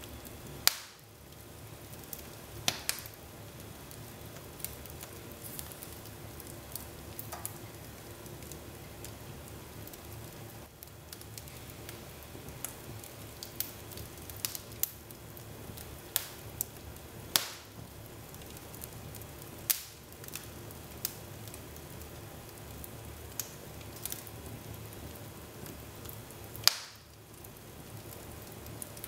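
Wood fire burning in a fireplace: a steady low rustle with crackles and sharp pops every few seconds, a few of them much louder than the rest.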